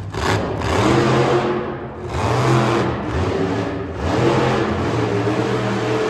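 Monster truck engine revving hard in three long surges, its pitch climbing and falling between them.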